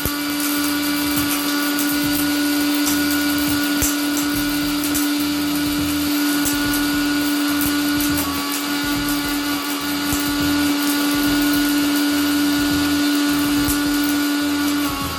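Agaro Blitz 750W mixer grinder running at speed: a loud, steady motor hum with a whirring rush over it. Right at the end the pitch starts to drop as the motor begins to wind down.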